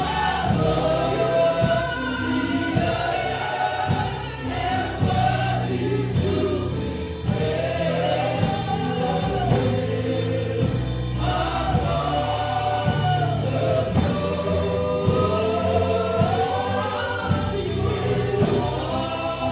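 Gospel worship song: a group of voices singing together over instrumental accompaniment with a steady beat.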